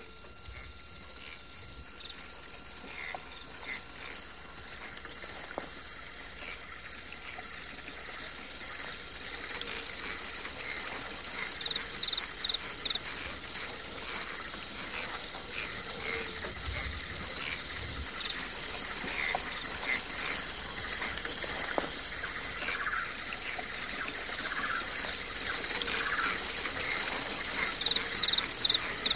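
Tropical night chorus of insects trilling steadily at a high pitch, with frogs calling in short repeated notes over a soft hiss that grows slowly louder. The pattern repeats about every 16 seconds, like a looped ambience recording.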